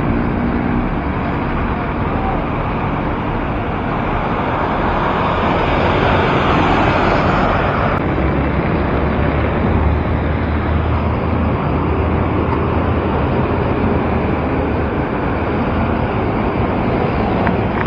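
Wind rushing over the microphone of a bicycle rider's camera while riding, mixed with city road-traffic noise, swelling louder for a few seconds about four seconds in.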